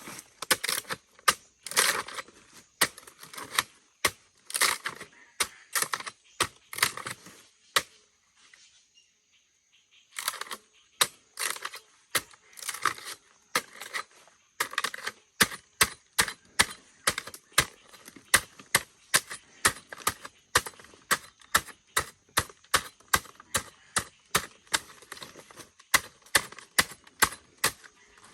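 Repeated sharp chopping strikes on wood, about two a second, with a pause of about two seconds partway through.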